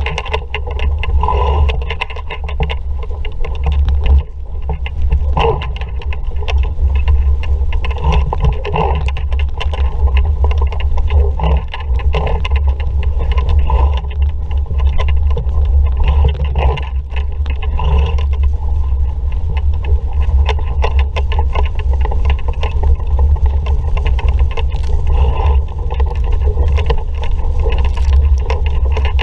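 An RS Vareo sailing dinghy under way in a strong breeze: steady, loud wind rush with water splashing and rushing along the hull.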